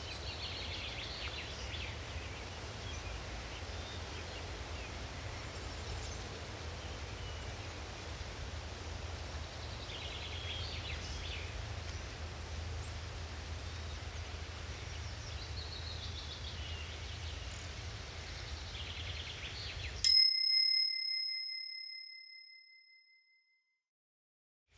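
Forest ambience with scattered bird chirps over a steady low rumble. About twenty seconds in, the ambience cuts off and a single timer chime rings once, a clear bell-like ding that fades out over about three seconds into silence, marking the end of a one-minute interval.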